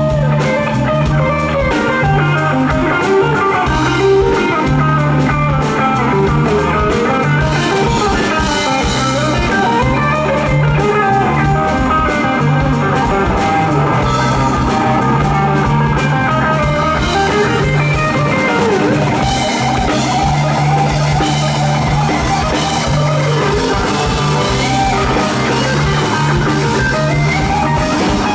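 Live rock band playing, with an electric guitar solo over drums and bass; the guitar's bending lead lines sit over a steady pulsing bass.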